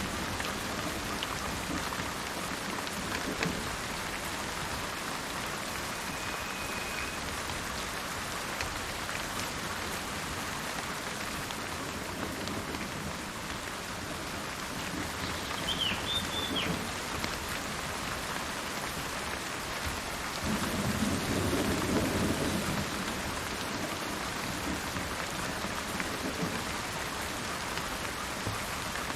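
Steady rain with low rumbles of thunder that swell and fade several times, loudest about 21 seconds in. A bird calls briefly twice: a short whistle about 6 seconds in and a higher call about 16 seconds in.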